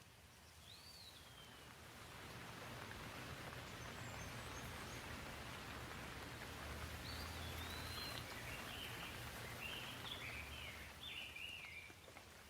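Light rain with a soft, even hiss that swells through the middle and eases near the end. A bird chirps once early on, and gives a quick run of short chirps toward the end.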